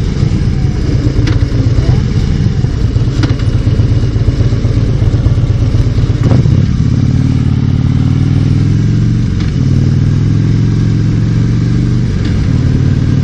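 Harley-Davidson motorcycle engine running under way on its stock exhaust, which the rider calls weak sounding. The pitch dips briefly about six seconds in and again about nine seconds in, then climbs slowly.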